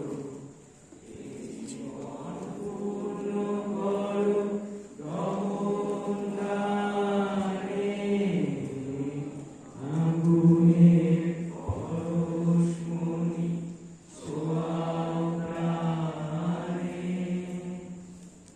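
A group of voices chanting in unison. They hold long steady notes in five phrases of a few seconds each, with short breaks between them.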